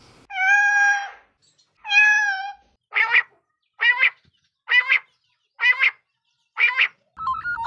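A bird calling: two drawn-out calls with a wavering pitch in the first few seconds, then five short calls spaced about a second apart.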